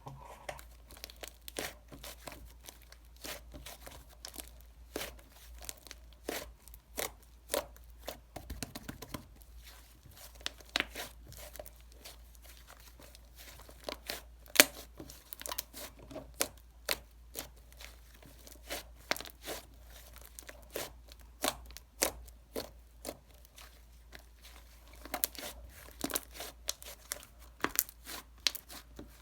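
Chocolate wrapper being crinkled and torn open by hand: irregular crackling and tearing of packaging, with sharp crackles scattered throughout.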